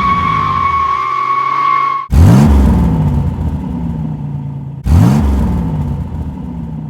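Car engine sound effect revving up three times, each rev rising quickly in pitch then settling and fading, about every two and a half seconds. A steady high whine runs alongside during the first two seconds.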